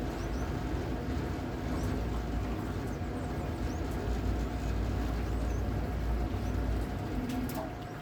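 Outdoor noise dominated by a steady low rumble, typical of wind on the microphone, with a faint steady hum over it and a few short high chirps. The rumble eases near the end.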